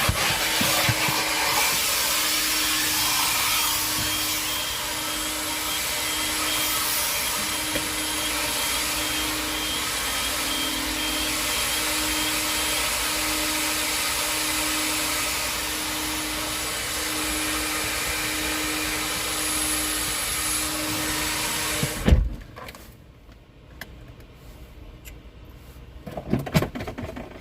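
Vacuum cleaner running steadily on the car's interior, then switched off about 22 seconds in with a thump, followed by quieter handling knocks.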